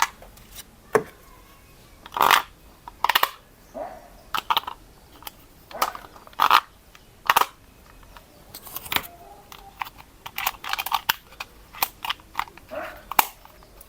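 Irregular sharp clicks and crackles of objects being handled, about one a second.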